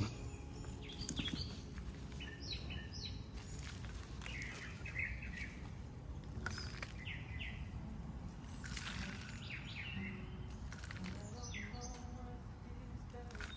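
Small birds chirping and calling on and off, with a few brief scrapes of a shovel pushing soil back into a planting hole.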